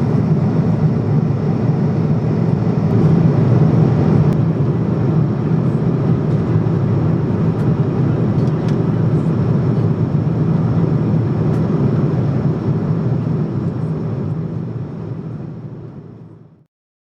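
Steady engine and air noise of a Boeing 777-200 in flight, heard inside the passenger cabin: a deep, even rumble with a faint high whine, fading out near the end.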